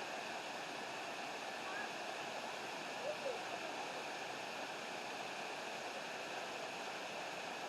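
Steady rushing water of a waterfall, with a faint distant voice briefly about three seconds in.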